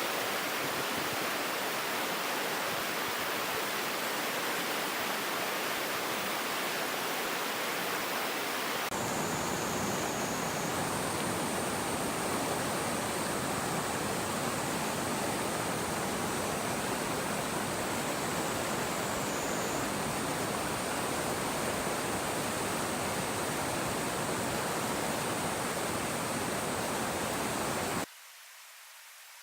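Mountain stream water rushing steadily over rocks. Its sound shifts about nine seconds in, a thin high steady tone runs above it after that, and near the end it drops suddenly to a much quieter hiss.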